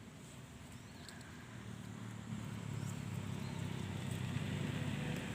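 A passing motor vehicle's engine, a low rumble that fades in and grows steadily louder as it approaches.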